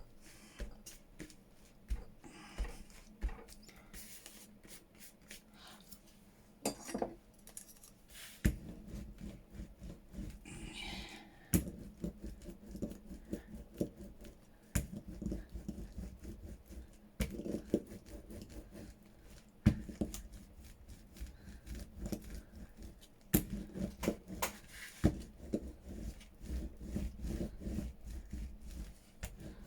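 Craft-table handling noises: paper rubbing and rustling with many scattered sharp clicks and taps, the rubbing fuller from about a third of the way in.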